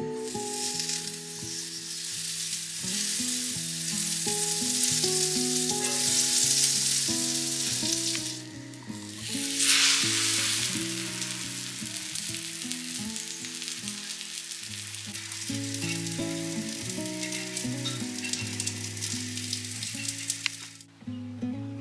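Food sizzling as it fries in a pan, a steady crackling hiss. It thins out briefly about eight seconds in, then comes back at its loudest, and cuts off sharply near the end.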